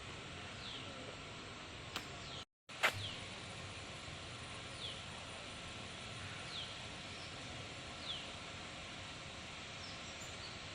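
A bird calling in a short falling whistle, repeated every second or two over a steady outdoor hiss. There is a brief dropout with a sharp click about three seconds in.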